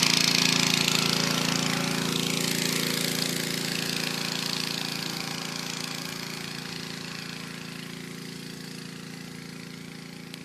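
A 5 hp Honda single-cylinder four-stroke petrol engine running at a steady speed, its sound growing gradually fainter.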